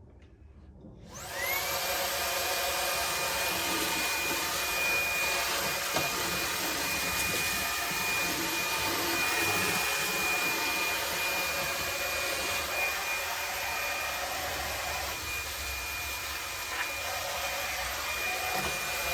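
Ryobi One+ cordless hand vacuum switching on about a second in, its motor whine rising quickly to a steady high pitch, then running evenly while sucking up spilled bird seed and powdery debris.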